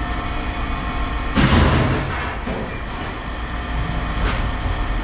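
Steady low engine hum with a loud crash about a second and a half in that dies away within about half a second, then a single short knock near the end.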